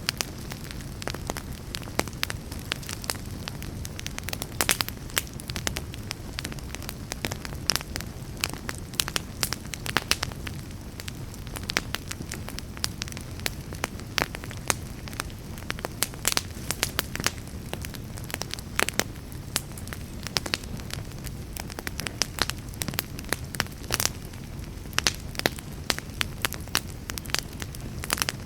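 Wood fire burning in a fireplace: many sharp pops and crackles at irregular intervals over a steady low rumble of the flames.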